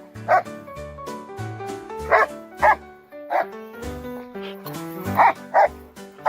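A dog barking about six times in short sharp barks, several in quick pairs, over background music with a steady beat.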